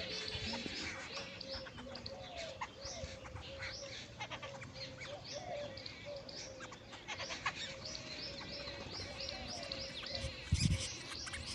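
Jungle babblers calling as a flock: harsh, nasal notes repeated rapidly and overlapping one another. A lower rising note recurs about once a second underneath, and there is a brief low rumble near the end.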